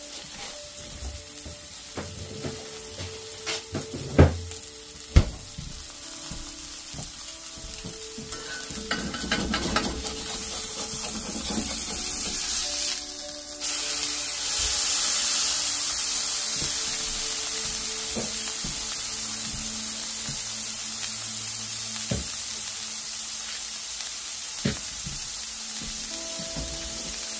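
Smash burger patties sizzling in a cast iron skillet, a steady frying hiss. There are two sharp knocks about four and five seconds in. About halfway through, the sizzle jumps suddenly louder and brighter, then slowly eases off.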